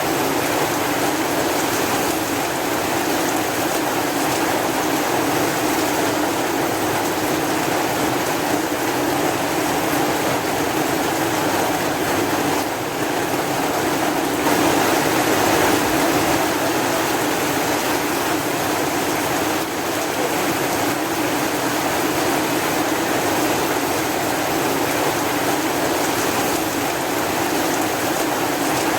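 Rain falling steadily, an even rushing hiss with no let-up.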